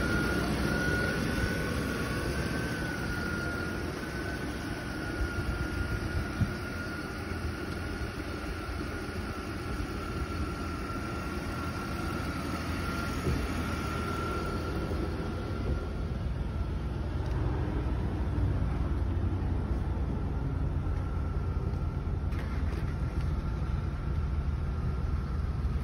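A 2011 Chevrolet Impala's V6 engine idling steadily, a running sound the buyers take as healthy. A thin, steady high whine sits over it for about the first half.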